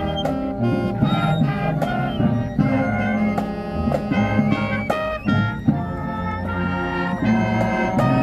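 High school marching band playing: brass holding loud chords over drum hits.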